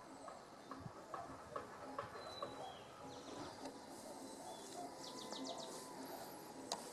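Birds chirping, with a quick run of high chirps about five seconds in, over a faint, irregular ticking. There is one sharp click near the end.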